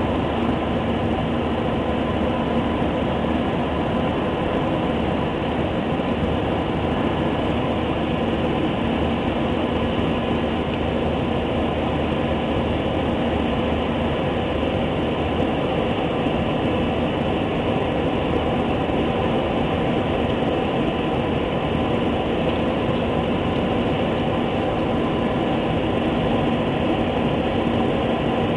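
Jet airliner cabin noise: the engines and airflow make a steady, even drone with a constant hum through it, heard from inside the passenger cabin.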